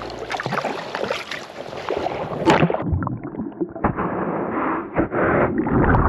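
Sea kayak being paddled through thin ice on the water: irregular crackling and clicking of breaking ice against the hull, mixed with paddle splashes and water sloshing.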